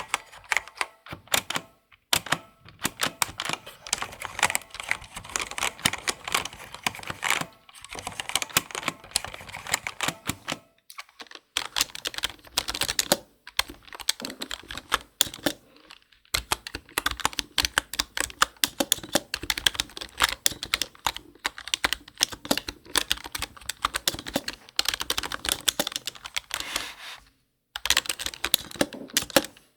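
Fast typing on a computer keyboard: dense runs of crisp key clicks, broken by brief pauses and a longer pause near the end.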